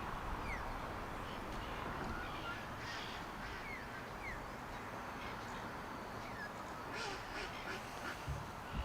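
Ducks quacking now and then, with short higher chirps, over a steady low outdoor rumble.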